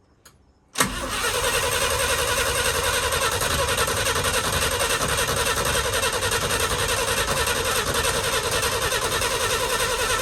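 Starter cranking the 1966 International Harvester's BG 241 straight-six, which turns over steadily for about ten seconds without catching. The cranking starts suddenly about a second in, after a click.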